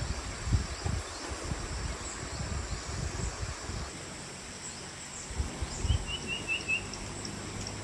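Small birds chirping in the background, with a quick run of five short chirps a little past the middle, over irregular low thuds and rumble.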